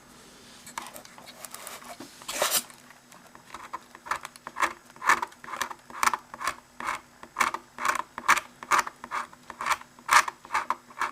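Hobby knife blade scraping a printed number off an HO-scale plastic locomotive shell: one longer scrape about two seconds in, then short strokes about twice a second.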